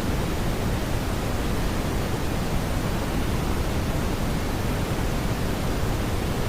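Smoothed brown noise: a steady, even hiss weighted toward the low end, with no tones or beats.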